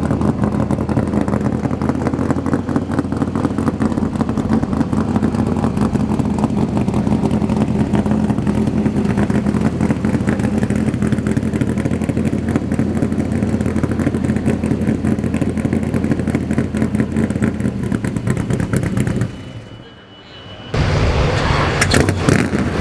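A Corvette's ZL-1 aluminium 427 big-block V8 idling steadily with a fast, choppy firing beat. About 19 seconds in the sound drops away for about a second, then the engine is heard running again.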